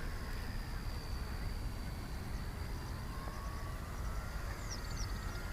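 Radio-controlled Cessna model airplane's motor and propeller whining in flight, a thin steady tone that drifts slowly in pitch, over wind rumble on the microphone. A bird chirps twice near the end.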